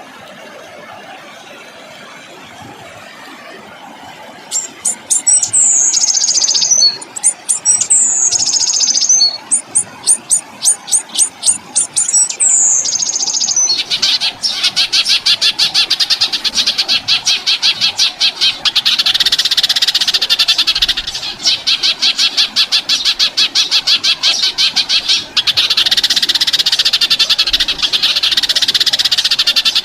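Songbird song on a bird-training recording. After a few quiet seconds come three phrases of rapid sharp clicks, each ending in a high falling whistle. About halfway in, a long, fast, rattling trill takes over and runs on with only brief breaks.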